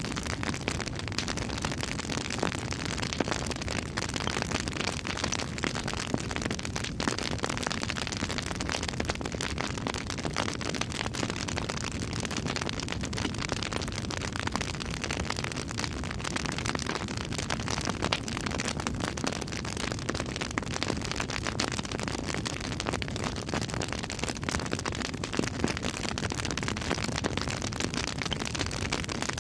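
Campfire burning with continuous crackling: many short sharp pops and snaps scattered over a steady hiss and low rumble of the flames.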